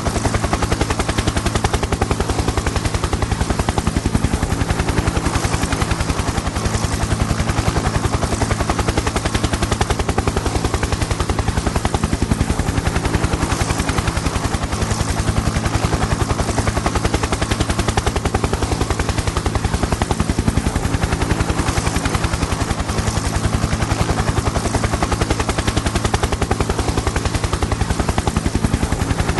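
Helicopter in flight, its rotor blades chopping in a fast, even beat over a steady low engine and gearbox hum.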